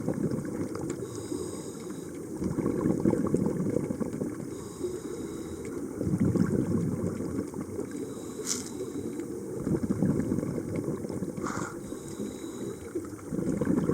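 Underwater sound of a scuba diver breathing through a regulator: a low bubbling rumble of exhaled air that swells about every three to four seconds, with two brief sharp clicks in the second half.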